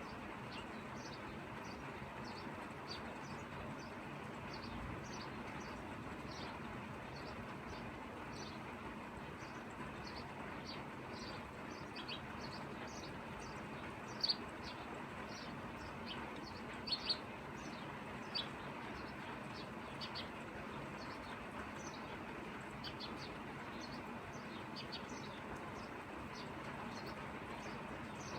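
Steady rain falling, with short high bird chirps repeating over it throughout, a few of them louder in the middle.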